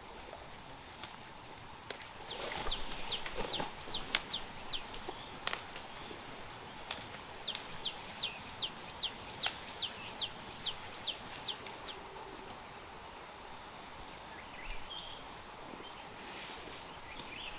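A bird calling a run of short, sharp, falling notes, about three a second, in two bouts, over a steady high insect drone. A few sharp clicks are heard among them.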